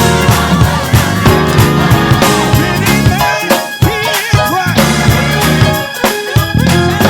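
Upbeat gospel band music with drums, bass, organ and keys. The drums and bass cut out for a moment twice, about halfway through and near the end, while gliding organ and keyboard lines carry on.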